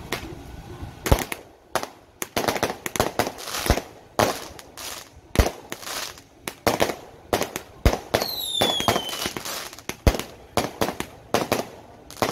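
Firecrackers going off in an irregular string of sharp bangs, with a high falling whistle about eight seconds in.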